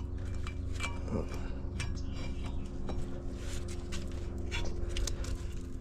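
Scattered light metallic clicks and clinks of a brake caliper and its pads being handled and tried over the rotor on a pickup's front brake, over a steady low hum.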